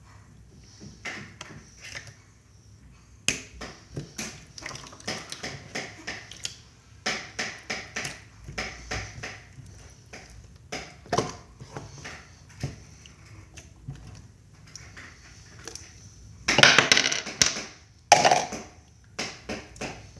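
Slime being squished and worked by hand, making an uneven run of wet clicks and pops, with a louder burst of crackling about three-quarters of the way through.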